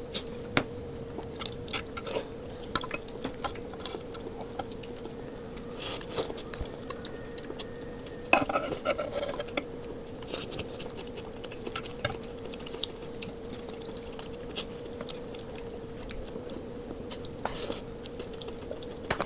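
Close-up eating sounds: chewing and mouth noises with scattered clicks of utensils against dishes, over a steady hum.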